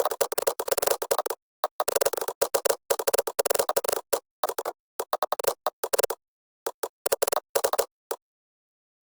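Computer keyboard typing in quick bursts of clicking keys, broken by short pauses; the typing stops about eight seconds in.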